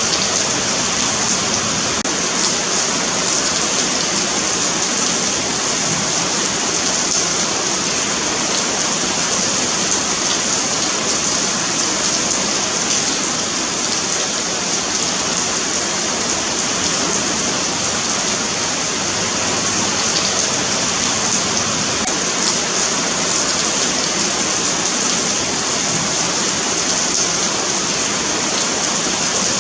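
Steady rain falling on a paved sidewalk, a continuous hiss with faint individual drop ticks.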